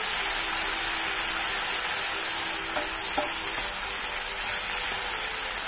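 Sprouted moong, peanuts and chickpeas sizzling in butter in a nonstick pan from its leftover heat with the gas just turned off, being stirred with a spatula: a steady hiss with a couple of faint ticks about three seconds in.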